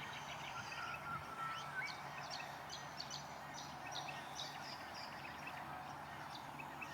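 Wetland birds in the reeds calling and chirping in quick, high chips and twitters, with a short whistled note about a second in. A steady low hum from distant machinery runs under them.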